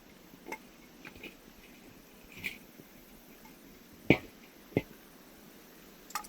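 Wood fire burning, with irregular sharp pops and crackles over a faint steady hiss; the loudest pop comes about four seconds in, with another close after it. The firewood is not fully dried.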